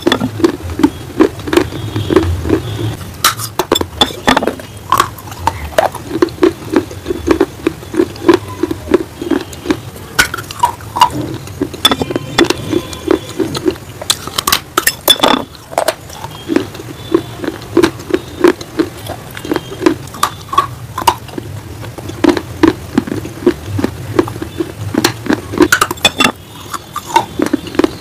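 Crunching and chewing of baked clay pieces close to the microphone: sharp, crackly bites followed by steady chewing at about three chews a second, with occasional clinks on a glass plate.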